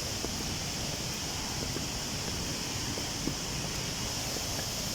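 Steady outdoor hiss with faint, scattered footsteps and rustling as people climb a rocky trail.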